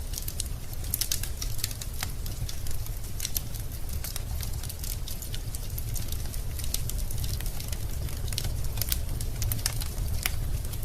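Wood burning in a fireplace, crackling: scattered sharp pops and snaps over a steady low rumble of the fire.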